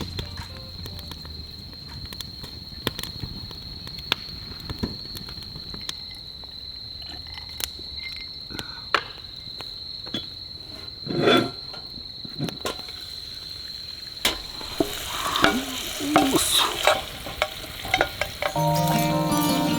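Campfire crackling and sizzling with scattered sharp pops, over a steady high-pitched insect trill. Louder knocking and rustling come in near the end.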